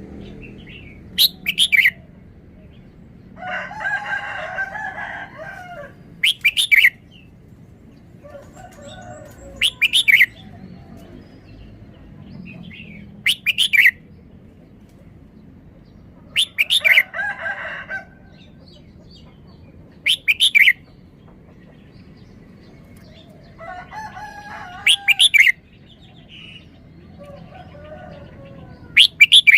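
Red-whiskered bulbul singing short, loud, sharp three-syllable phrases, repeated about every three to four seconds. Between the phrases come longer, harsher calls from another bird.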